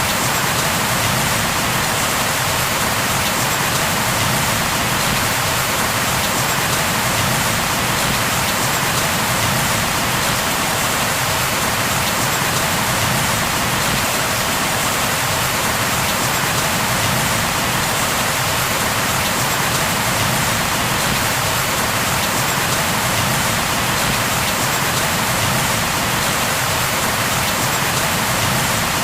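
Steady rain falling on a surface, a dense, even hiss that holds constant without change.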